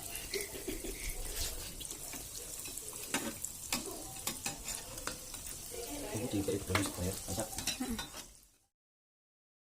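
Battered mozzarella corn dogs deep-frying in hot oil, a steady sizzle with scattered crackles and pops. The sound cuts off abruptly near the end.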